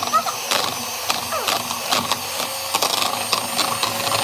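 Electric mixer running steadily, its beaters clattering against the bowl as the cake filling is beaten.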